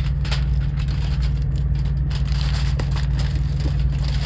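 Aluminum foil crinkling and crackling as it is handled and pressed over a window, over the steady low drone of the semi truck's diesel engine.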